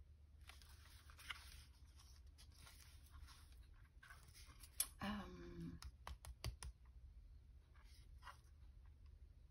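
Faint rustling of paper and cardstock being handled on a craft table, with a quick run of sharp clicks about five to seven seconds in.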